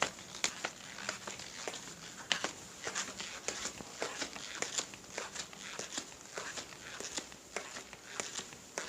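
Irregular crackling and clicking: sharp ticks at uneven spacing, several a second, over a light hiss.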